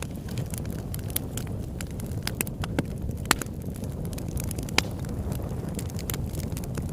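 Campfire burning: a steady low rumble of flames with frequent sharp crackles and pops, two of them louder, about three and five seconds in.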